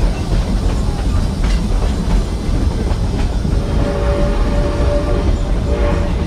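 Train cars rumbling along the rails heard from on board, with a few clicks from the wheels and track. About halfway through a steady high tone joins the rumble.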